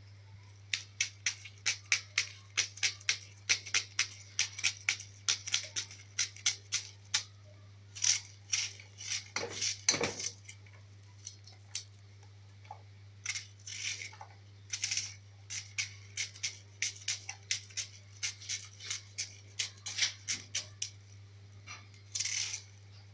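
A kitchen knife cutting onions by hand, with a sharp tap at each stroke, about two to three a second. The cutting pauses briefly in the middle and then carries on. A steady low hum runs underneath.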